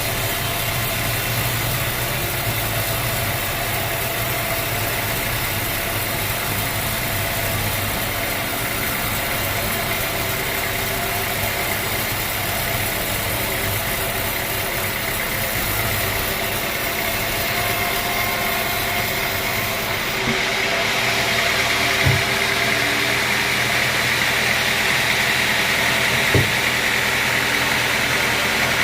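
Sawmill machinery running steadily with an engine-like hum; the sound shifts about two-thirds of the way through, and a few short knocks come in the last part.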